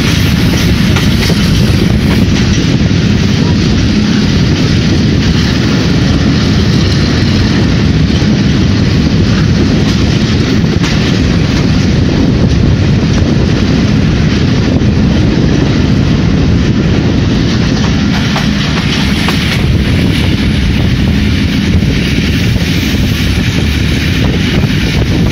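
Pakistan Railways passenger coach running at speed, its wheels rolling on the rails in a steady, loud noise, heard from an open window of the coach.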